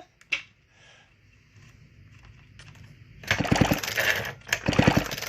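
McCulloch chainsaw engine cranked over on its pull-cord starter twice in quick succession, each pull a short, fast rattle. It keeps sparking with the switch set to off: the on/off switch is not killing the ignition.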